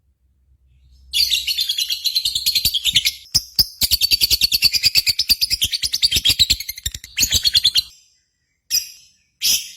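Lovebird singing one long, fast chattering trill of about seven seconds, then two short chirping bursts near the end: the drawn-out 'ngekek' song that keepers want from a bird in full song.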